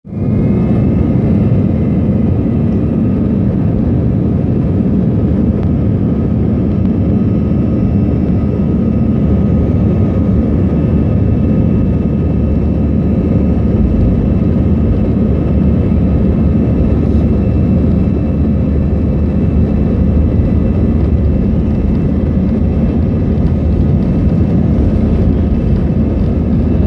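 Airbus A321 airliner's jet engines running: a steady, loud low rumble with faint steady whining tones above it.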